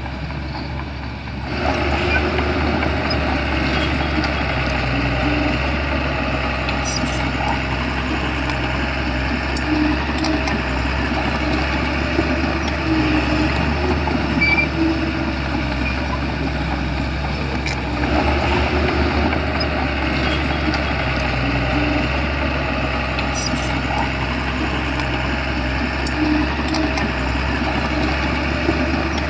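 Shantui bulldozer's diesel engine running steadily, stepping up in level about a second and a half in, with a couple of brief clicks.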